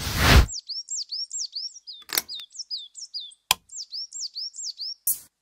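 Bird chirping: runs of quick falling chirps, about four a second, with a short rushing burst at the start and two sharp clicks, about two and three and a half seconds in.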